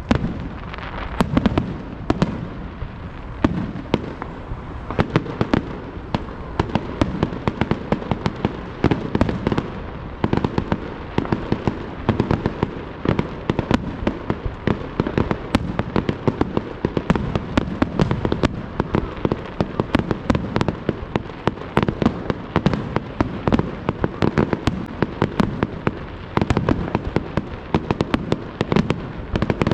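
Fireworks display going off in a dense, continuous barrage: sharp bangs several times a second over a low rumble.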